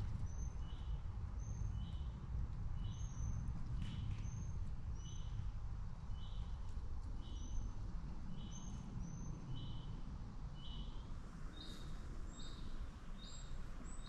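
A songbird calling the same short clear note over and over, about two a second, with fainter higher notes between them. The notes shift a little higher near the end. A low rumble runs underneath.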